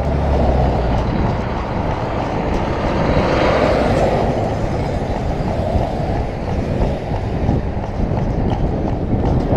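Steady vehicle rumble of engine and road noise, with a slight swell a few seconds in.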